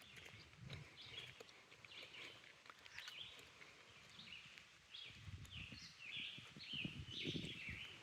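Faint birdsong: a steady run of short, high, repeated notes, several a second. Low rumbles lie underneath.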